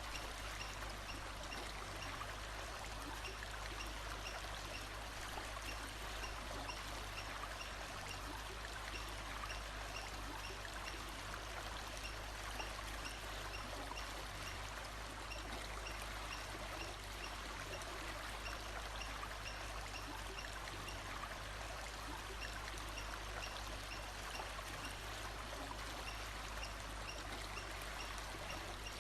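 Steady rush of a running stream, with faint short high chirps repeating at an even pace over it.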